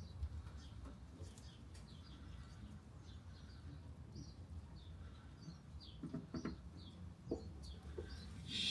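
Faint birdsong: short chirps repeating throughout over a low steady hum, with a few light knocks about six to seven seconds in.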